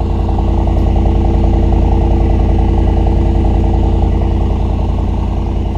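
Mercedes-AMG SL 63's twin-turbo 4.0-litre V8 idling steadily just after start-up, a deep, even burble.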